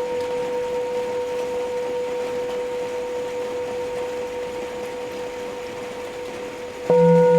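Tibetan singing bowl ringing on in a steady tone with one clear overtone, slowly fading with a slight waver. Near the end a bowl is struck again, sharply louder, adding a deeper pulsing tone. A steady hiss of rain lies underneath.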